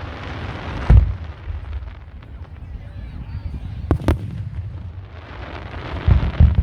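Aerial fireworks shells bursting: a deep boom about a second in, two sharp cracks in quick succession about four seconds in, and further deep booms near the end.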